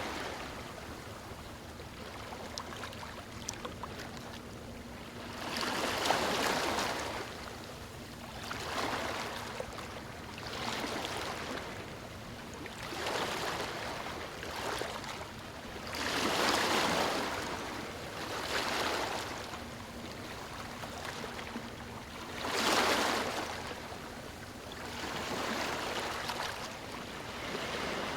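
Waves breaking on a stony shore, each swelling and washing back every two to three seconds. The biggest surges come about six, sixteen and twenty-three seconds in.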